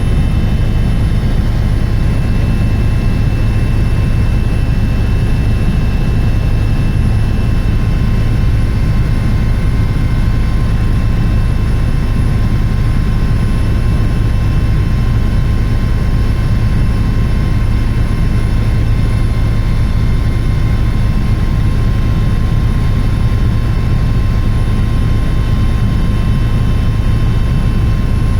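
Helicopter in flight: a loud, steady drone of engine and rotor, with a deep hum and several constant high-pitched whines that do not change.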